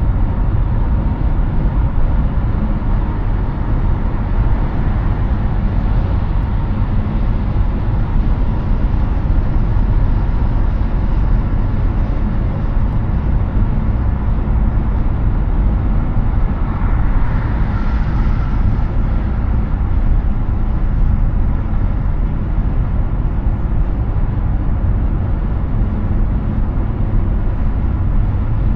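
Steady road and wind noise of a Hyundai Ioniq 6 electric car cruising at highway speed: a low tyre rumble under an even hiss, with a brief swell of higher hiss about two-thirds of the way in.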